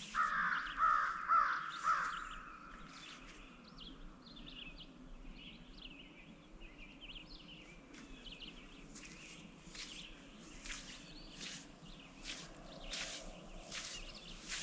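Outdoor bird chorus. A bird gives a short run of loud, harsh, repeated calls over the first two seconds, then many smaller birds chirp and tick quietly through the rest.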